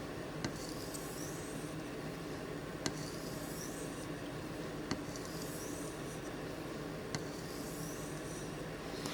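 800-grit sharpening stone drawn in light polishing strokes along a knife edge, the tanto blade of a Microtech Combat Troodon OTF knife: a faint rising scrape roughly every two seconds, each with a small click, over a steady low hum.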